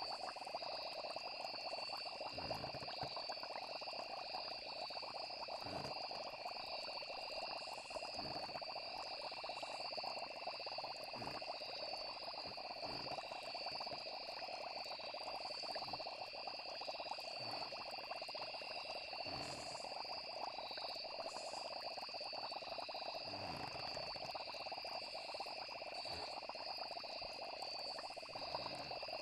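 Night chorus of frogs and insects: steady high chirring over a dense lower trill, with a few brief low pops scattered through.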